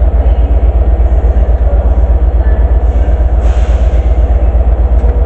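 Class 67 diesel locomotive's two-stroke V12 engine running while the locomotive stands at the platform: a loud, very deep throb that pulses rapidly and evenly. A short hiss comes about three and a half seconds in.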